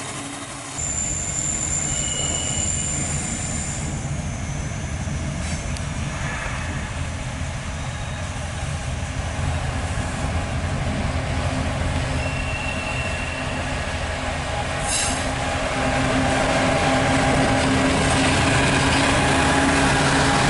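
Freight train running past: a low diesel locomotive drone under the rumble of the cars, with steel wheels squealing against the rails in short, high, steady tones. It gets louder in the last few seconds.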